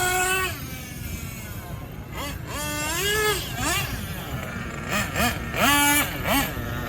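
Alpha Ryan Lutz nitro engine in a 1/8-scale Intech buggy, revving up and falling back in short bursts, with its highest rev near the end.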